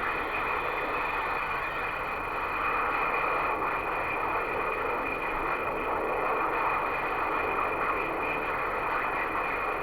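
CB radio receiver hissing with steady band static and noise between skip transmissions, a thin steady whine running through it.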